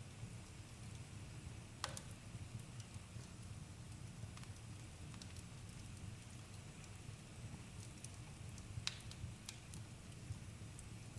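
Campfire burning with a low steady rumble and scattered sharp crackles and pops from the burning wood, the loudest pops about two seconds in and near nine seconds.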